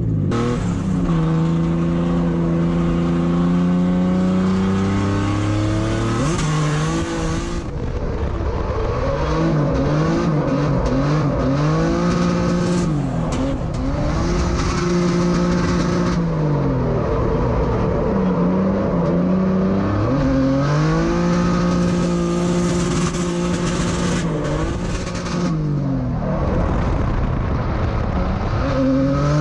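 Drift car's engine heard from inside the cabin, driven on a cool-down lap: it holds steady for a few seconds at a time, and its revs rise and fall several times.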